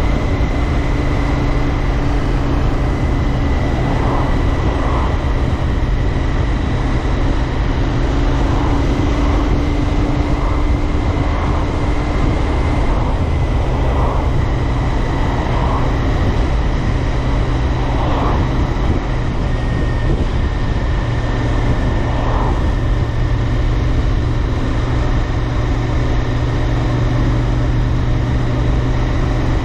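Royal Enfield Interceptor 650's parallel-twin engine and exhaust running at a steady cruise on the move, with wind and road noise.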